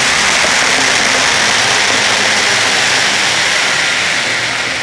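Fireworks crackling in a dense, continuous hissing rush of many overlapping small bangs.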